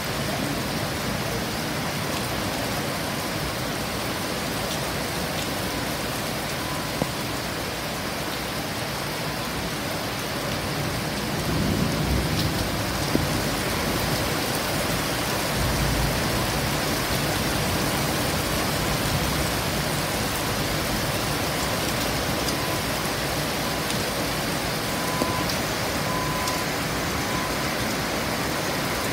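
Heavy rain falling steadily. A little before halfway through, a low rumble of thunder swells up and the overall sound grows somewhat louder.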